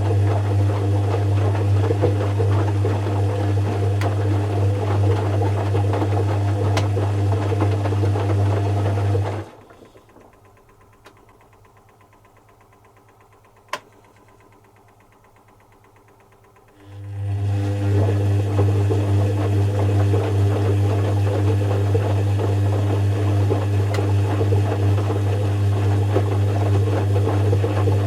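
Zanussi FC1000 compact washing machine's motor turning the drum in a wash cycle: a steady loud hum that stops about nine seconds in. About seven seconds of quiet follow, broken by a single click, then the motor winds back up and runs steadily again.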